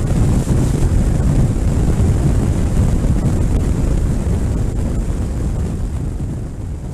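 Wind buffeting the microphone on a moving motorcycle, a dense low rumble with a rushing hiss above it, easing off a little near the end.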